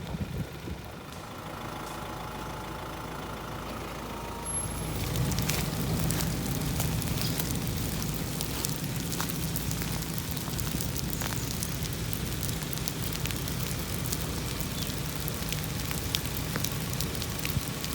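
Vehicle engine running steadily with rain pattering, the patter and engine noise growing louder about five seconds in.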